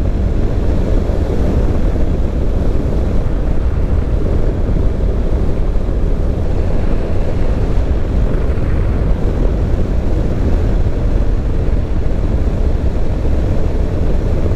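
Wind rushing over the microphone and steady road noise from a motorcycle cruising at an even speed.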